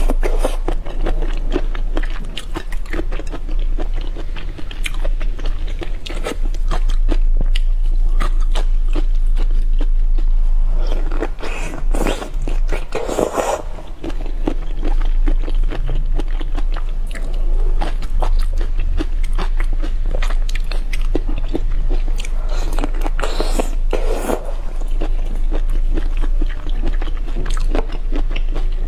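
Close-miked eating sounds: biting into and chewing peeled prawns in chili sauce, with dense wet mouth clicks, smacking and a few louder slurps. A steady low hum runs underneath.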